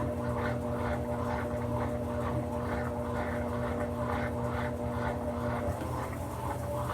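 Brastemp BWK17 17 kg washing machine running mid-cycle: a steady motor hum with a regular swishing pulse about two to three times a second. One hum tone drops out near the end.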